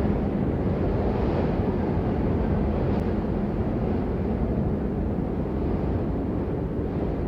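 Steady rain: an even, unbroken wash of noise with a deep rumbling low end and no single drops standing out.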